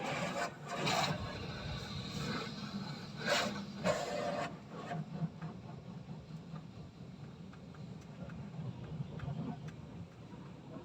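Car wash equipment running with a steady low hum, broken by several loud hissing bursts in the first half.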